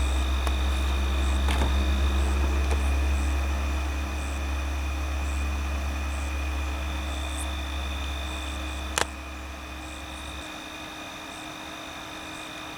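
A steady low hum that cuts off suddenly about ten and a half seconds in, with a single sharp click about nine seconds in.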